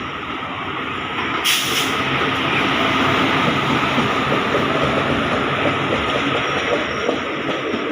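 Indian Railways express train running past: a steady rumble and rattle of wheels and coaches on the track, with a brief burst of hiss about a second and a half in.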